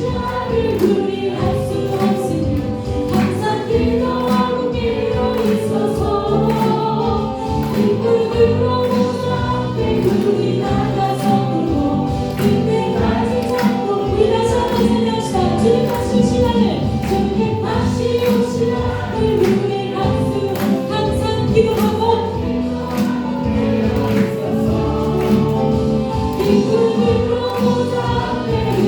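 Korean contemporary worship song: a group of voices singing together over band accompaniment, with drums keeping a steady beat.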